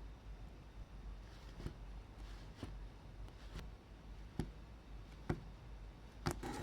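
Several light clicks and knocks, about one a second, as of small hard parts or tools being handled, over a low steady hum.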